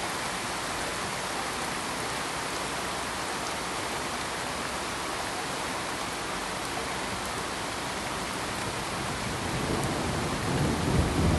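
Steady, even hiss of rain, with a low rumble of thunder building over the last two seconds.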